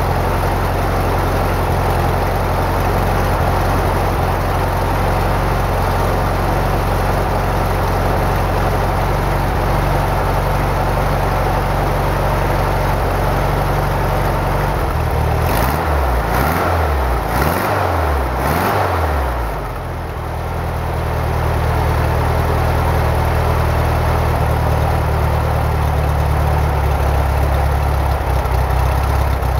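Freshly overhauled Volkswagen Beetle flat-four engine idling steadily, blipped with four quick revs about halfway through before settling back to idle.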